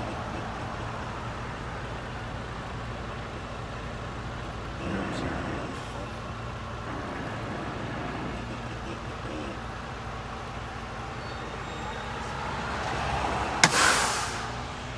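Semi truck's diesel engine running at low speed, heard from inside the cab as the tractor creeps forward. Near the end comes a sharp click followed by a short burst of hiss.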